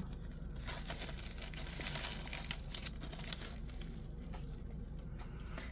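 Plastic packaging bag crinkling and rustling as it is handled and opened, with scattered small clicks.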